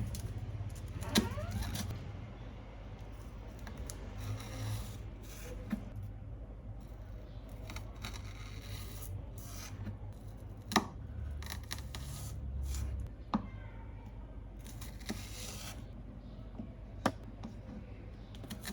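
Kitchen knife pressing down through scallions onto a cutting board: scattered sharp knocks a few seconds apart, with brief scraping, over a low steady hum.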